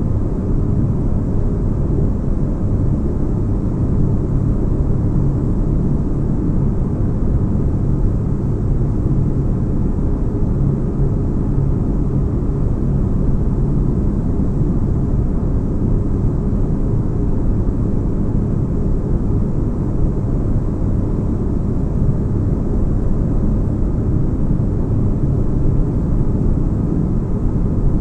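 Steady deep rumbling hum of a sci-fi spaceship ambience, a dense low bass drone with a faint higher hiss, unchanging throughout.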